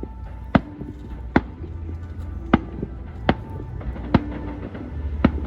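Aerial fireworks bursting: six sharp bangs at uneven gaps of about a second, over a steady low rumble.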